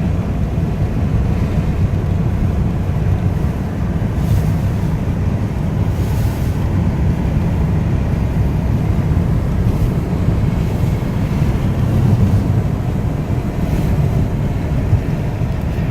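Car driving, heard from inside the cabin: a steady low rumble of engine and tyres, with wind noise over it.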